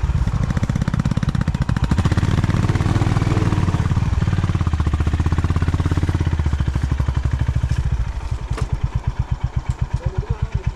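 Honda CB350's air-cooled single-cylinder engine running with an even beat of firing pulses. About eight seconds in it drops back to a slower, quieter idle.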